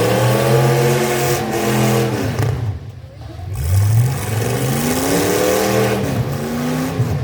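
Full-size pickup truck engines revving hard in a demolition derby, their pitch climbing and falling. The revs drop off briefly about three seconds in, then climb again.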